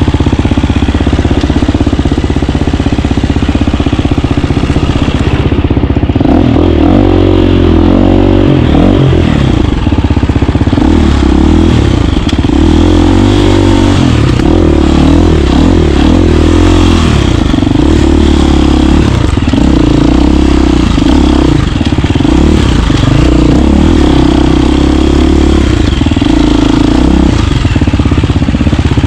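KTM 350 dirt bike's single-cylinder four-stroke engine running loud while riding. It holds fairly steady at first, then from about six seconds in revs up and down repeatedly with the throttle.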